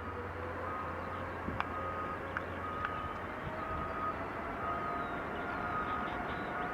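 Boeing 747 freighter's jet engines spooling up for the takeoff roll: a steady rumble with a faint whine that slowly rises in pitch. Short high beeps repeat about every half second over it.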